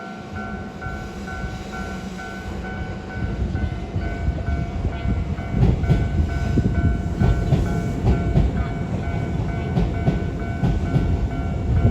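Japanese level-crossing warning bell ringing with a steady repeating ding, while a Toei 5500-series electric train approaches and passes over the crossing. The train's rumble grows, and from about halfway through it carries rapid clacks of wheels over rail joints.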